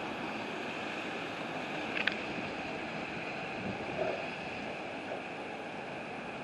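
Windstorm wind blowing steadily, with a brief sharp click about two seconds in.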